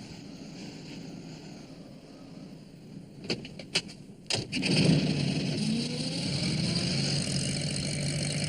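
A few sharp clicks and a knock, then a small van engine starts about four and a half seconds in and runs on steadily.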